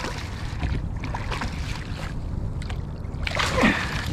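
Wind rumbling on the microphone over faint water and kayak sounds, with scattered small knocks and a short falling vocal sound about three and a half seconds in.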